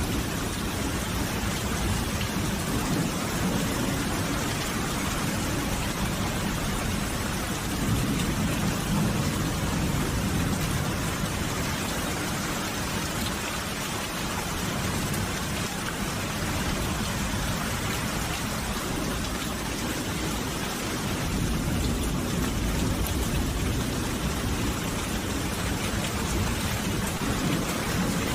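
Steady heavy rain falling, an even hiss across the whole range with a low rumble underneath that swells about eight seconds in and eases a few seconds later.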